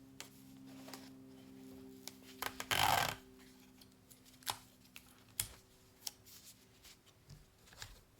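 Packaging being handled by hand for shipping: scattered small clicks and rustles, with one louder rustle of about half a second about three seconds in. A faint steady hum dies away after about seven seconds.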